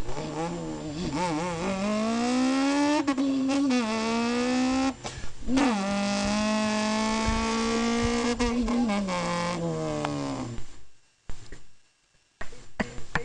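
A person's voice drawing out long pitched tones. The tones wobble and glide upward at first, break off briefly, then hold one steady note for several seconds before stopping.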